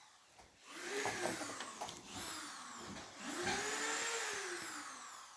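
A power tool's electric motor whirring up and winding down in several short runs, its pitch rising quickly and then falling away each time.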